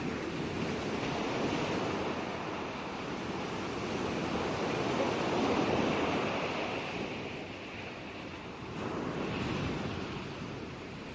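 Gentle ocean waves washing onto the shore, swelling to a peak about halfway through, easing, then a smaller swell near the end.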